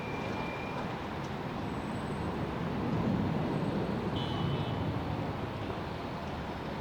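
Jet airliner engines rumbling steadily, swelling a little in the middle and easing off again.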